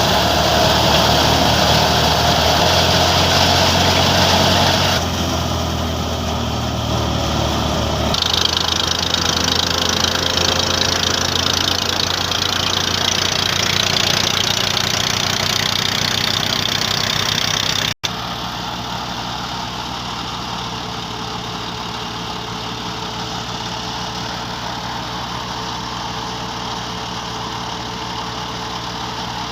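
Massey Ferguson 135 tractor engine running under raised throttle, its speed shifting in steps a few times in the first third. After a brief dropout about two thirds in, it runs steadily and a little quieter.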